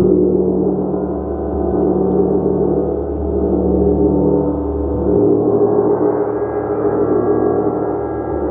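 Large gong played continuously: a dense, sustained wash of overlapping tones that swells and ebbs about every two seconds. About five seconds in, the deepest low tone fades and the higher tones come forward.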